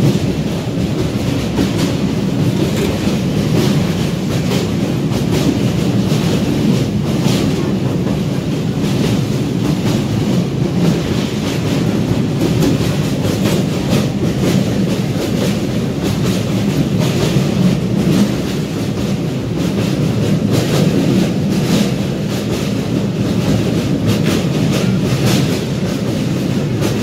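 Steady rumble and clatter of a MEMU passenger train's wheels on the rails, heard from inside a carriage at an open window as the train crosses a steel truss bridge.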